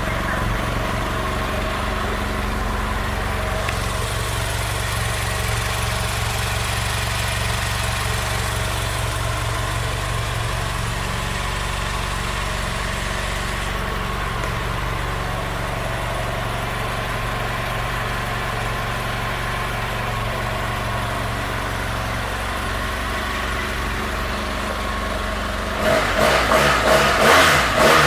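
2015 BMW F800R's 798 cc parallel-twin engine idling steadily, then revved with several quick blips of the throttle near the end.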